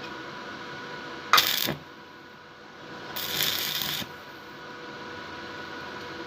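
Stick arc welding electrode striking the arc in two short goes: a sharp crackling burst lasting under half a second, then a hissing burst lasting about a second. A steady electrical hum runs underneath.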